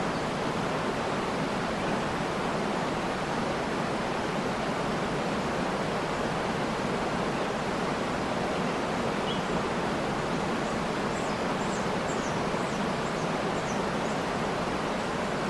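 Waterfall rushing steadily, with a few faint, short high bird chirps in the second half.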